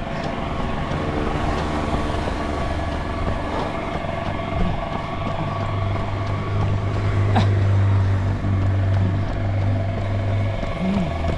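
Road traffic on a highway: a vehicle's low engine drone swells, peaks about seven to eight seconds in, and eases off near the end, with a single sharp click about seven seconds in.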